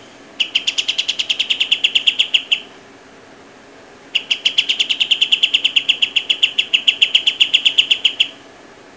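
An animal's rapid pulsed trill, given twice: a short trill of about two seconds, then after a pause a longer one of about four seconds, each a fast even series of high chirps at roughly ten to fifteen pulses a second.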